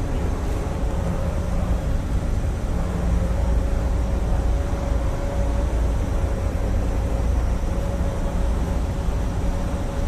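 Steady machine hum: a constant low rumble with a steady mid-pitched tone running through it, unchanging throughout.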